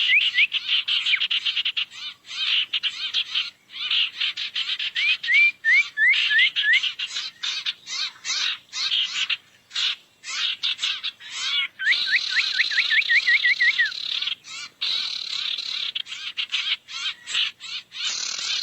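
Burung sirtu calls from a bird-lure recording: a dense, fast dry chattering, broken by runs of four to eight quick rising whistled notes, most clearly near the start, about a third of the way in and around two-thirds in.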